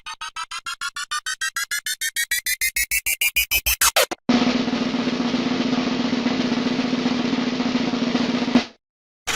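Sound effects: a drum-roll-like build of short pulses that speed up, get louder and rise in pitch, stopping suddenly about four seconds in. Then a steady hiss with a low hum runs for about four seconds and cuts off abruptly.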